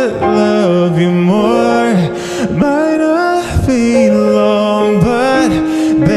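Slowed-down, reverb-heavy pop song: a male voice sings a slow, gliding melody with held notes over soft sustained backing.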